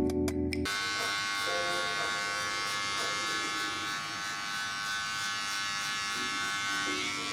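Music ends under a second in, then a small motor runs with a steady, even buzz.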